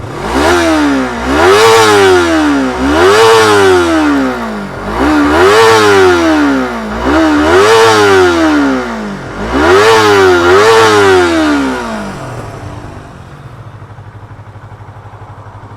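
Yamaha R25's 249 cc parallel-twin engine through its stock exhaust, revved up and let fall back six or seven times in a row, the pitch climbing and dropping with each blip. About twelve seconds in it settles back to a steady idle.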